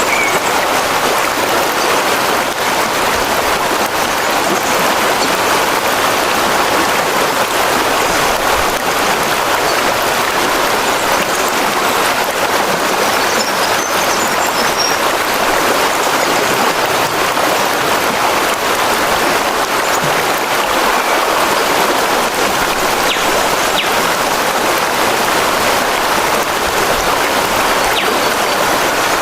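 Steady, even rushing of water, with no breaks or changes in level.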